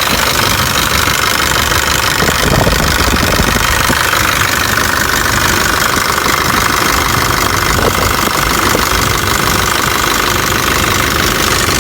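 Nissan Patrol's 3.0-litre four-cylinder turbodiesel engine running steadily.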